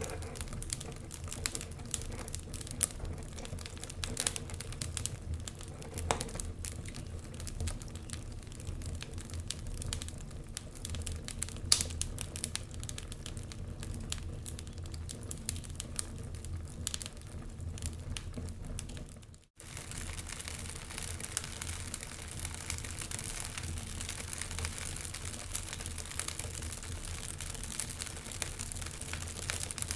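Fireplace fire crackling, with frequent sharp pops and snaps over a steady low rumble. About two-thirds of the way through the sound drops briefly to silence, then resumes with a denser, hissier crackle.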